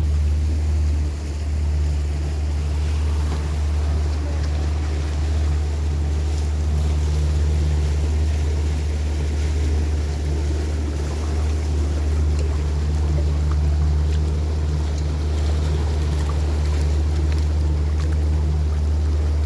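Tour boat's motor running steadily underway, a low drone, with water rushing past the hull and wind on the microphone.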